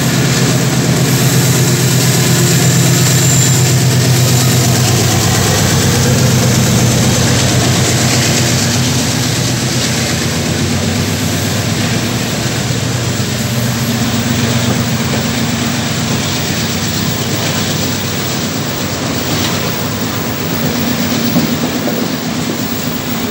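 Loaded iron-ore freight train passing: a diesel locomotive's engine hums low over the rolling noise for the first several seconds, then fades, leaving the steady rumble of heavy ore wagons on the rails.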